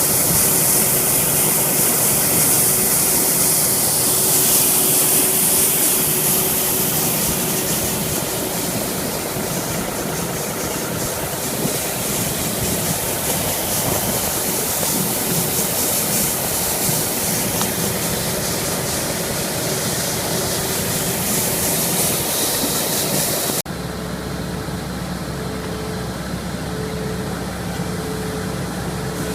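Truck engine running steadily under a loud, high hiss. About 24 seconds in the sound cuts abruptly to a lower, steadier engine hum.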